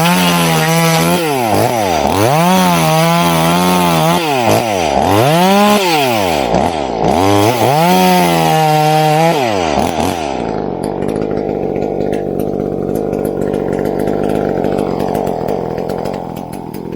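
Two-stroke chainsaw revved up and down about five times in quick succession, then running steadily at a lower, even note for the last several seconds, fading near the end.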